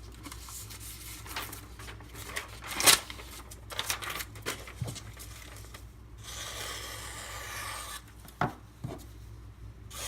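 A freshly sharpened knife edge slicing through paper in a test cut, with one long scratchy, rasping cut lasting about two seconds, along with a few sharp knocks and rubbing of handling.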